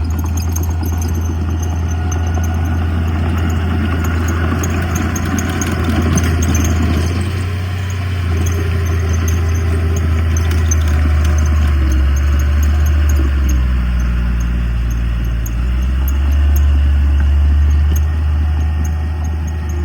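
Diesel engine of heavy earthmoving machinery running with a steady low drone, which shifts in pitch a couple of times in the latter half.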